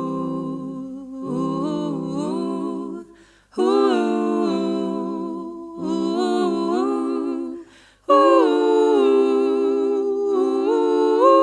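Background music: a cappella humming without words, sung in long held phrases separated by brief breaths.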